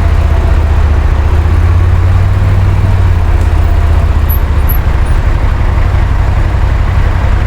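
CFMoto CForce 850 quad bike's engine running steadily on the move in traffic: a loud, constant low rumble with road noise, easing slightly about halfway through.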